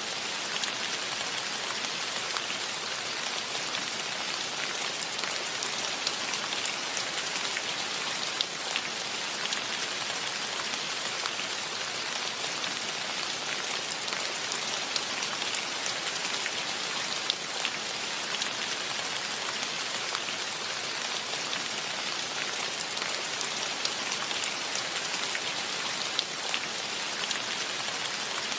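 Steady rainfall, a continuous hiss of rain with scattered individual drops ticking on nearby surfaces.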